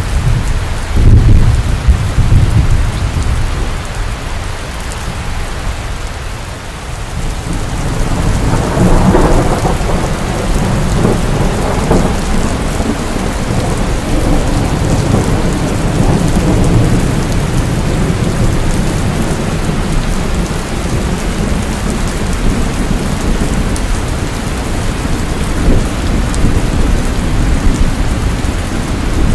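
Steady rain with rolling thunder: a deep rumble about a second in, then a longer roll of thunder that swells from about eight seconds in and keeps rumbling under the rain.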